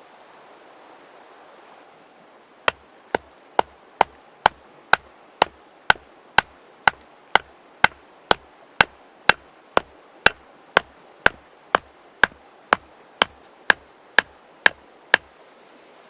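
A steady series of about two dozen sharp knocks, roughly two a second, starting a few seconds in and stopping shortly before the end, over the low hiss of a flowing river.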